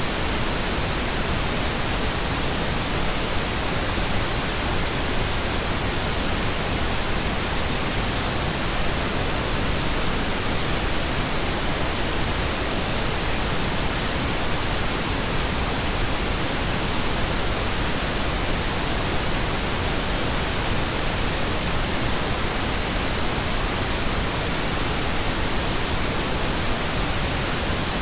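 Steady pink noise: an even, unchanging hiss spread over all pitches, with no rhythm or change.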